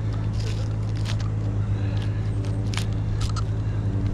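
An engine idling steadily, with a few short scrapes and clicks scattered over it.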